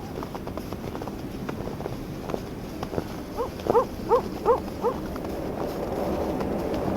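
Footsteps crunching on snow with wind. About halfway through, an animal gives five quick, rising calls in a row, the loudest sounds here.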